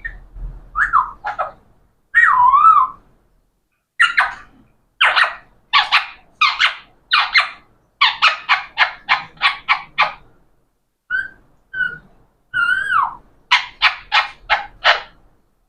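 Pet parrot calling: a few gliding, whistle-like calls, then runs of short harsh notes at about four a second.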